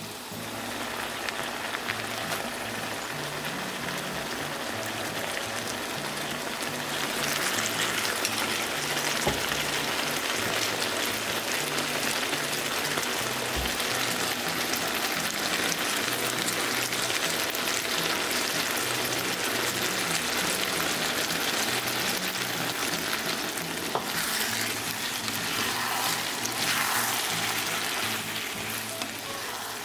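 Eggplant and onion sizzling in a hot frying pan as they are stir-fried with a spatula; the sizzle gets louder about seven seconds in.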